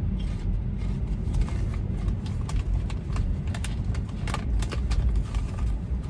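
Car road noise heard from inside the cabin while driving: a steady low rumble of tyres and engine, with scattered light ticks and taps.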